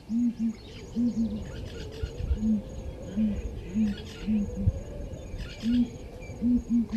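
A bird's low, short hooting calls, repeated singly, in pairs and in threes. A faint, high, evenly spaced chirping, about three a second, runs beneath them.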